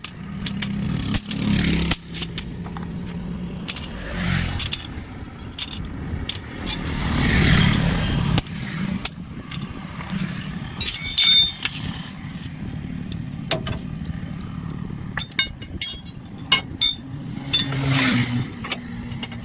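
Motor vehicles passing one after another, each swelling and fading. In the second half comes a run of sharp metallic clinks and knocks from work on the truck's leaf-spring parts.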